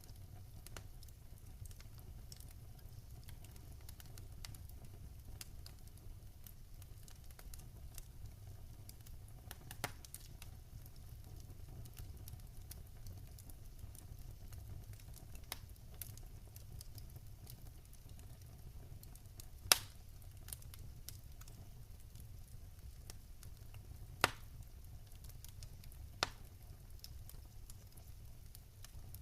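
Wood fire crackling in a fireplace: a low steady rumble of burning with scattered small crackles and a few sharper pops, the loudest about two-thirds of the way in.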